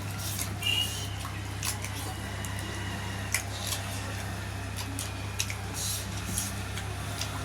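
Close-up mukbang eating sounds: wet chewing, lip smacks and squishing of soft food (dhido and spicy chicken), heard as scattered short clicks over a steady low hum.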